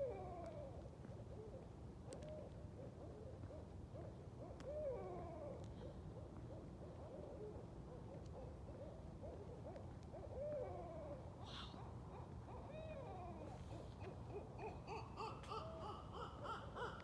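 Several barred owls hooting back and forth, their calls overlapping and rising and falling in pitch. Near the end a higher, rapid cackling series starts up: the owls' caterwauling.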